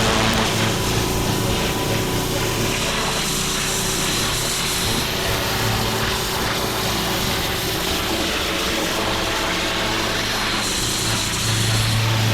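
A small engine running steadily at an even speed, with a constant hiss over it.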